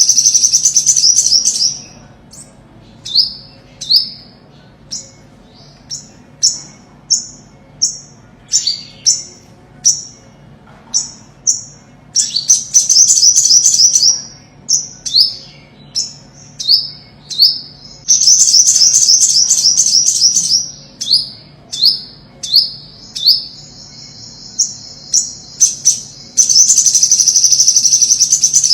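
Olive-backed (ornate) sunbird singing: high, fast trills of about two seconds each, heard four times, separated by strings of single high down-slurred chip notes, roughly one or two a second.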